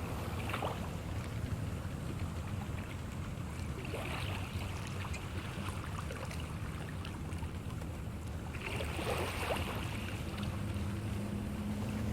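Boat harbour ambience: a steady low engine hum with swells of water wash every few seconds.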